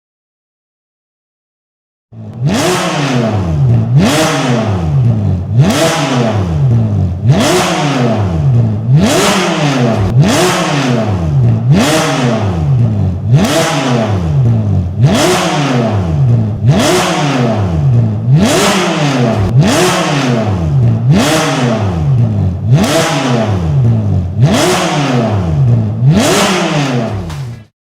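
Ferrari California's V8 through a Capristo valved exhaust, revved over and over: about fifteen quick throttle blips, each rising sharply in pitch and then falling back, one every second and a half or so. It starts about two seconds in and cuts off just before the end.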